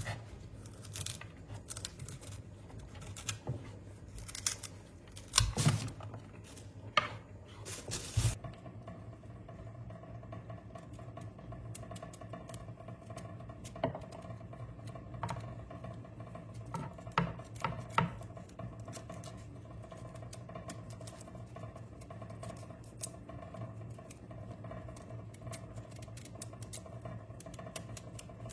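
Scattered sharp clicks and knocks, like small objects being handled, over a low steady hum. They are densest about five to eight seconds in and come again a few times in the middle.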